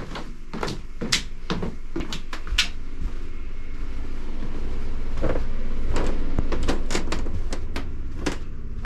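Irregular wooden knocks and clunks, as of footsteps and doors being handled in an old wooden house, with a low rumble swelling in the middle and fading near the end.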